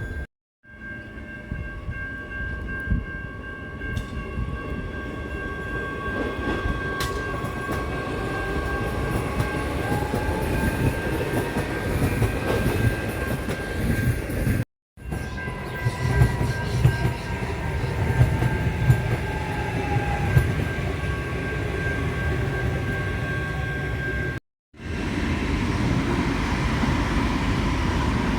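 A train running, with a heavy low rumble, clicks from the wheels and a steady high tone held for long stretches. The sound cuts out abruptly twice.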